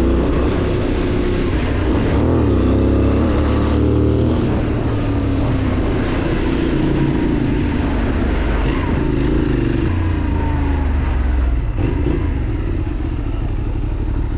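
Benelli 752S motorcycle's 754 cc parallel-twin engine running under way, its pitch rising and falling as the rider opens and closes the throttle, with brief breaks about four seconds in and near twelve seconds.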